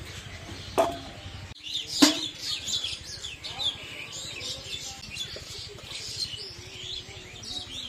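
Small birds chirping and twittering, many short quick calls overlapping. A sharp click comes under a second in, and a louder knock about two seconds in is the loudest sound.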